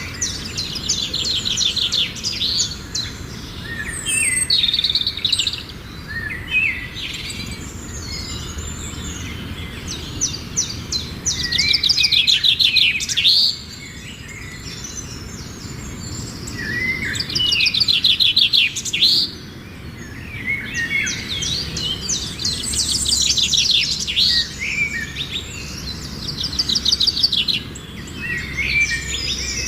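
Songbirds singing: bursts of rapid, high trilled notes repeated every few seconds, over low steady background noise.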